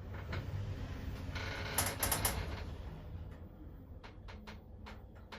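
Orona lift car travelling up one floor: a steady low rumble of the ride, a brief hiss about two seconds in, and a series of light clicks in the second half as it nears the floor.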